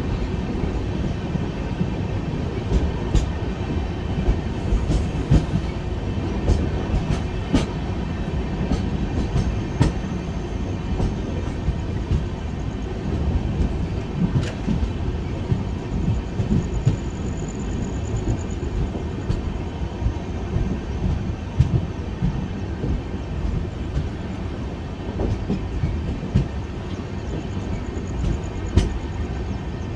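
Express passenger train running at speed, heard from aboard: a steady low rumble of wheels on track with scattered sharp clicks from rail joints. A faint high-pitched tone rises briefly twice, about halfway and near the end.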